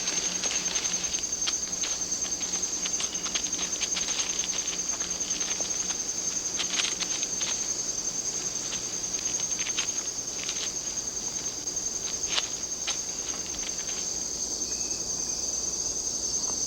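Rainforest insect chorus: a steady, high-pitched, fast-pulsing trill, with scattered faint clicks and ticks over it.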